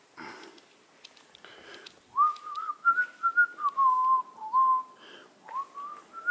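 Wind whistling: a wavering high tone that starts about two seconds in, sags lower through the middle and climbs again near the end. A couple of soft scuffs come before it.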